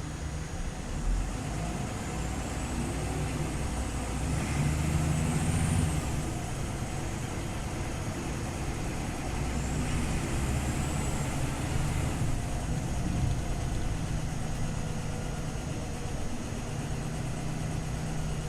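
Scania OmniLink city bus's diesel engine running steadily. It grows louder twice as the bus pulls under load, each time with a faint high whine that rises and then falls.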